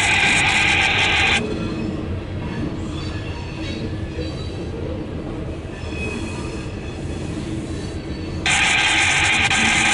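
A loaded coal train's freight cars roll past with a steady low rumble. A loud hiss cuts off abruptly about a second in and cuts back in just as suddenly near the end.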